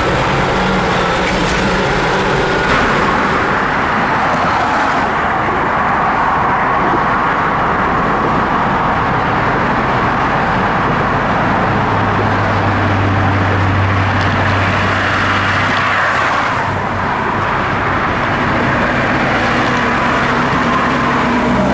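Diesel trucks running: a loud, steady mix of engine and road noise, with a low engine drone that swells in about halfway through and holds for a few seconds.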